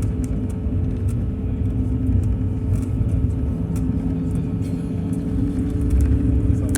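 Airliner cabin noise: a steady low rumble of the jet engines and airframe with a constant hum, and light ticks and rattles through it.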